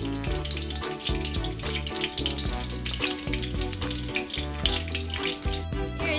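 Empanadas frying in shallow oil, the oil bubbling and sizzling around them, with background music playing underneath.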